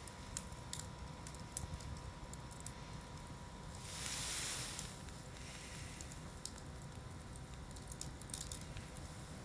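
Wood campfire crackling, with sharp pops scattered irregularly throughout. About four seconds in there is a brief hissing rush lasting about a second.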